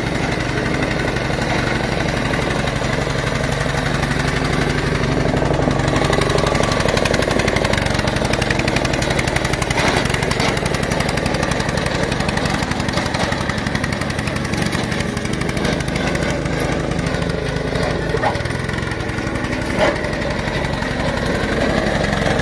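Old Japanese Honda small engine on a multi-purpose utility machine running steadily, with a couple of brief knocks about ten and twenty seconds in.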